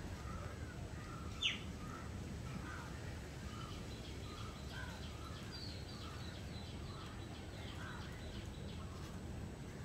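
Small birds chirping and calling over steady outdoor background noise: scattered short calls, one sharp falling note about a second and a half in, and a run of high chirps through the middle.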